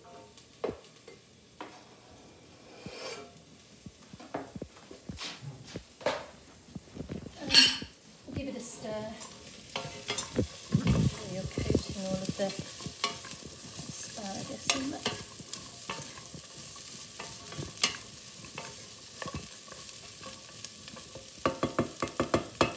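Chopped asparagus going into a saucepan of onion and garlic sautéing in olive oil and butter: scattered knocks and clatter, then from about ten seconds in a steady sizzle as the pan is stirred, with taps against the pan over it.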